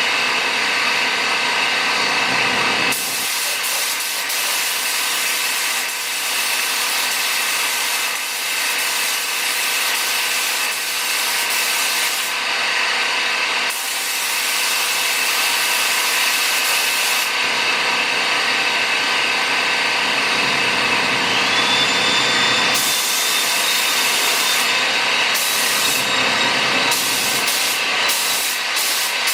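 Automotive paint spray gun hissing as it sprays base coat in long passes. The upper part of the hiss stops several times between passes, while a steady lower hiss and faint tones carry on underneath.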